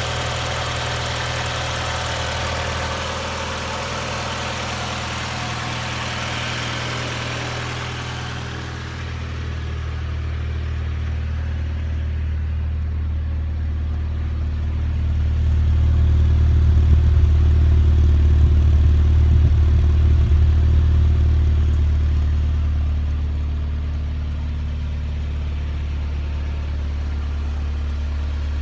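1990 Mazda Miata's 1.6-litre four-cylinder engine idling steadily. A hiss over it stops about nine seconds in, and the idle grows louder for several seconds midway without any change in pitch.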